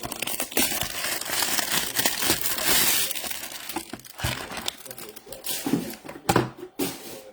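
Foil trading-card pack wrappers crinkling and tearing as packs are ripped open, with scattered rustles and clicks in the second half.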